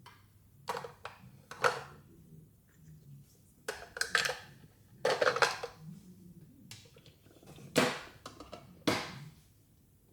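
Small hard plastic toy pieces being handled and set down: a series of sharp clicks and clatters, some with brief rustling between, spaced a second or two apart.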